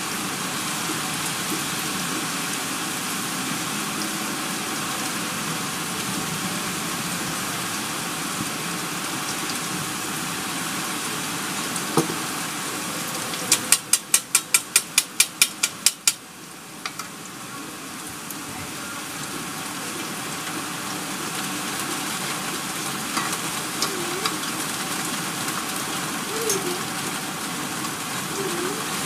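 Heavy rain pouring steadily. About halfway through, a quick run of about a dozen sharp clicks cuts in, and after it the rain sounds briefly softer before building back up.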